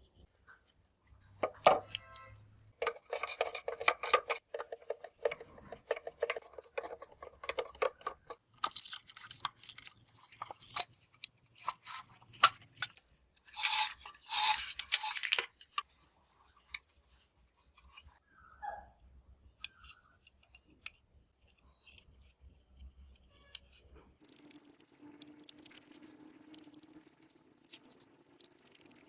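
Hands working on small parts: scattered clicks, knocks and scraping or rubbing, with two louder noisy stretches in the middle. A steady hum with hiss starts near the end.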